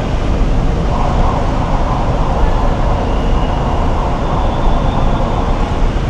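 Steady road and engine noise heard inside a moving car's cabin, heaviest in the low end.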